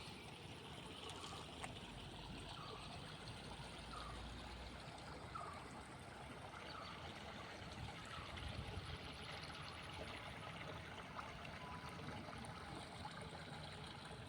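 Small stream flowing and trickling steadily, with faint short chirps repeating about once a second.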